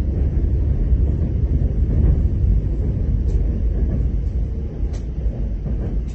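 Train running, heard from inside the carriage as a steady low rumble, with a few faint clicks.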